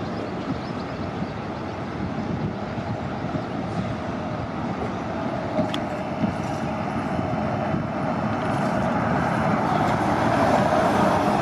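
City transit bus running and drawing nearer, the sound growing steadily louder through the second half, with a couple of faint clicks about halfway through.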